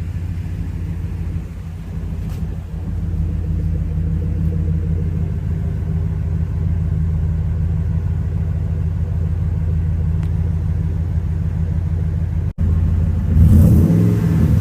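Exhaust of a 2000 Ford F-150's 5.4-litre 32-valve DOHC V8, running through a custom equal-length midpipe, Magnaflow X-pipe and Flowmaster FlowFX mufflers, with a steady deep rumble. It cuts out for an instant near the end, then comes back louder and fuller.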